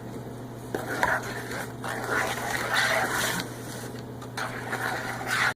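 Butter knife stirring and scraping through wet volcano plaster and water in a container, in irregular scratchy strokes.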